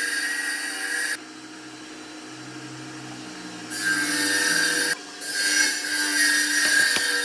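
Electric power tool working wood in passes: its motor keeps a steady whine throughout, and loud hiss comes and goes as it bites into the wood. It cuts in for about a second, eases off for a couple of seconds, then cuts twice more with a brief break between. A couple of small knocks come near the end.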